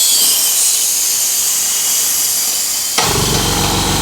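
Loud compressed-air hiss. About three seconds in it stops abruptly and an air compressor's motor starts, running with a steady hum.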